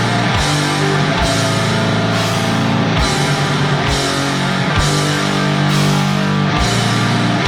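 Black metal music: dense, distorted guitar chords held over a deep drum hit a little more than once a second.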